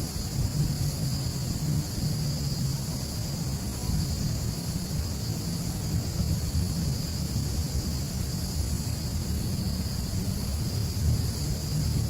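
Outdoor field ambience: a steady low rumble of wind on the microphone under a continuous high, gently pulsing drone of insects.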